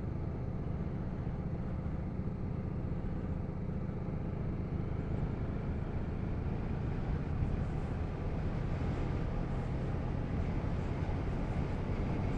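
Motorcycle engine running steadily at cruising speed, heard from the rider with wind and road noise.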